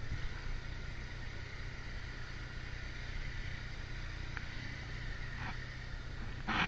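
Motorcycle engine running at a steady cruise, with road and wind noise. A short sharp noise comes right at the end.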